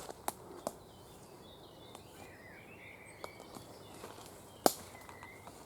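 Faint woodland birdsong: a few short chirping, warbling phrases in the middle and again near the end. Several sharp clicks break through, the loudest just before the end.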